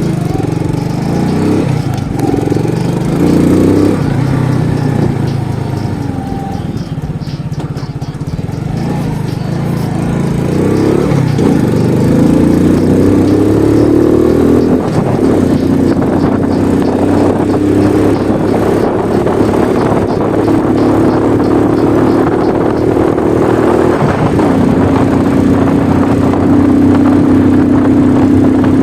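Alpha moped's single-cylinder four-stroke engine with its exhaust made loud, revved up and down repeatedly. In the second half it runs at steadier speeds, its pitch stepping up and then back down.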